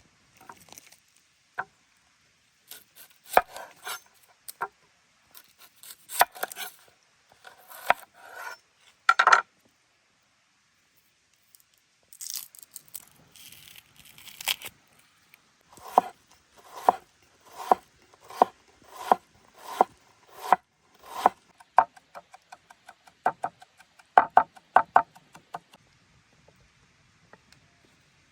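Knife chopping food on a wooden cutting board: clusters of sharp knocks, then a run of steady strokes a little over one a second, and quicker lighter taps near the end.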